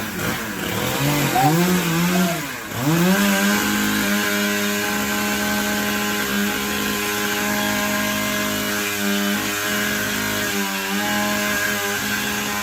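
Two-stroke chainsaw revved up and down a few times, then held at a steady high speed, dipping briefly near the end.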